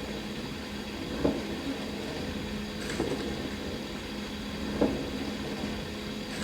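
Dishwasher running through its wash cycle: a steady pump hum and water spray, with a brief swishing splash against the tub about every two seconds.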